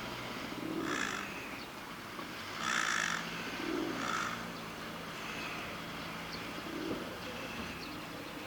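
Birds calling: three short, harsh calls about one, three and four seconds in, over a low cooing call that repeats about every three seconds.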